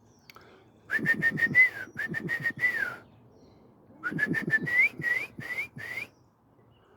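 Whistling in two bursts of short, quick repeated notes. The first burst stays at one pitch; in the second, the notes slide upward. Each note comes with a sharp click.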